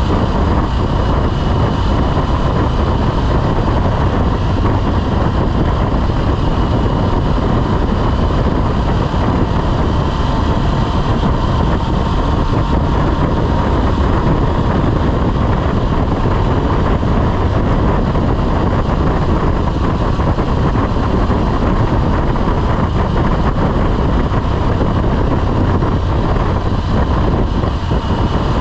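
Motorcycle under way at a steady speed: wind rushing over the microphone, with the engine and road noise running steadily underneath.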